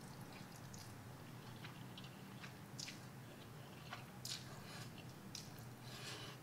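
Faint chewing of a mouthful of cold, sauce-coated instant noodles, with scattered small wet clicks from the mouth over a low steady hum.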